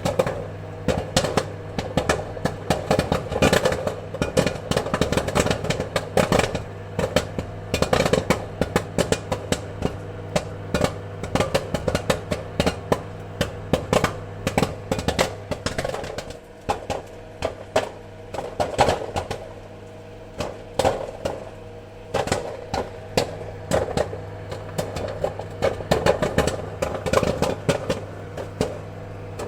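Popcorn popping: many irregular sharp pops in quick succession over a steady low hum, thinning a little a bit past halfway.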